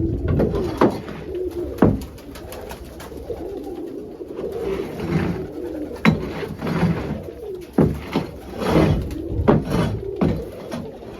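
Pigeons cooing in a coop, a steady wavering low cooing, with several sharp knocks and short rustles between the calls.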